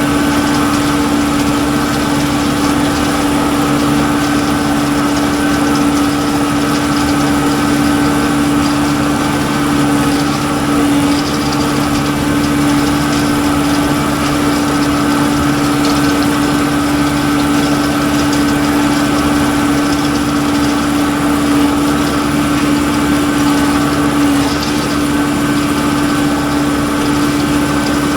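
Tractor engine running steadily with a constant machine hum, as when working a poultry litter cruster.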